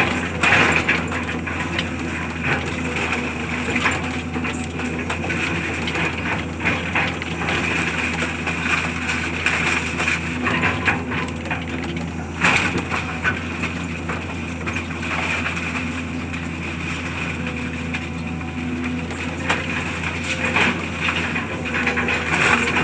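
A heavy machine's engine running steadily on a demolition job, with repeated cracking and crunching of debris being broken up.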